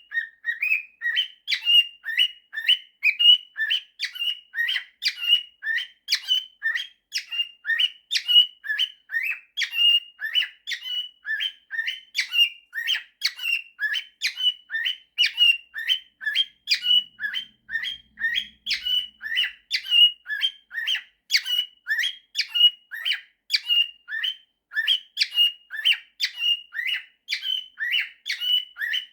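Pet cockatiel whistling and chirping: a steady, unbroken run of short, quick notes, about three a second, that jump between a higher and a lower pitch.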